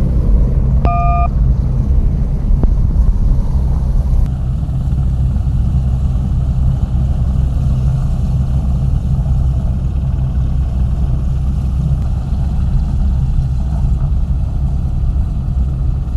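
Loud, steady low engine rumble, with a short electronic beep about a second in.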